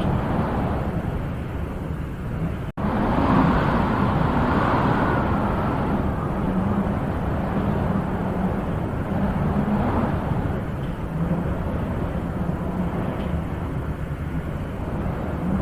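Wind blowing in a steady rushing noise that swells into a gust about three to five seconds in. The sound cuts out for an instant just under three seconds in.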